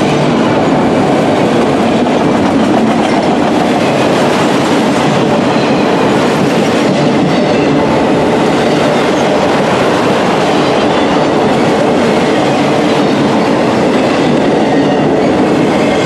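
Autorack freight cars rolling past close by: steady, loud noise of steel wheels running on the rails.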